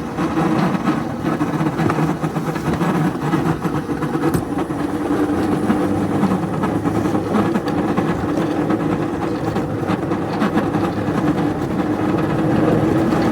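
Engines of two ride-on scale locomotives running steadily with an even drone, driven at top speed.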